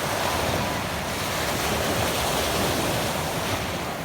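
Sea waves washing steadily onto a pebble beach, with some wind on the microphone.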